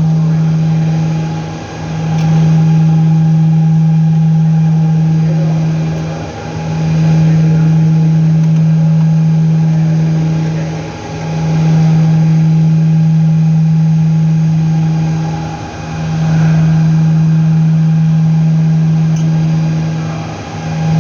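A loud, steady, low machine hum that dips briefly and regularly about every five seconds.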